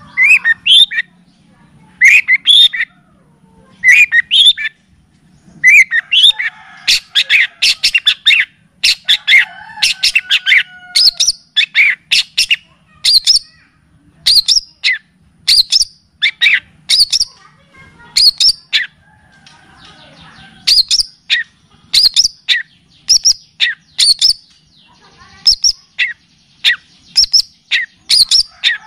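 A songbird calling in loud, sharp, repeated chirps, many sliding down in pitch, given in quick runs with short pauses between groups; a recording of the kind played to tutor a caged long-tailed shrike.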